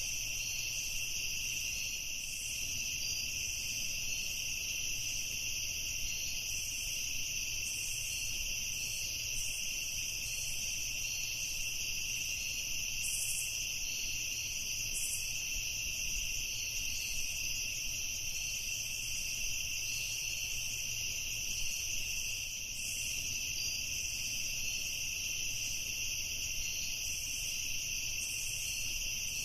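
Evening chorus of insects trilling steadily at two high pitches, an unbroken drone with a faint flicker of quicker chirps above it.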